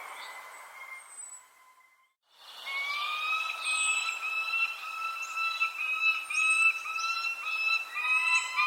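Birds giving short, high, falling chirps over a long steady whistle-like tone with overtones, which wavers slightly. Everything cuts out briefly about two seconds in, then resumes.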